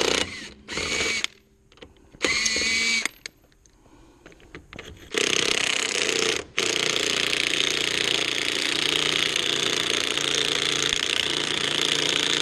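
Impact wrench hammering on a rusted wheel's lug nut: three short bursts, then one long run of about seven seconds with a brief break, the nut not breaking loose.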